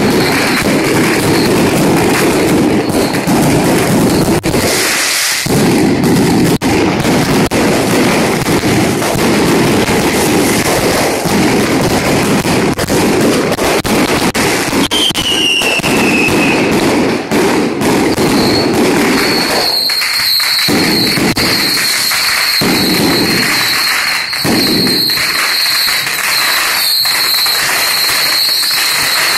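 Firecrackers and fireworks going off in a dense, continuous rapid crackle, loud throughout. About halfway a short falling whistle cuts through, and from about two-thirds in a steady high whistle runs on over the crackling.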